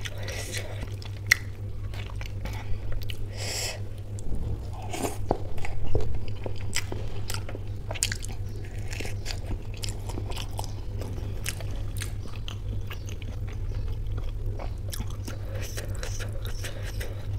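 Close-miked eating of samosa chaat with ghugni: biting and chewing, with many small wet mouth clicks and some crunching, loudest about five to six seconds in.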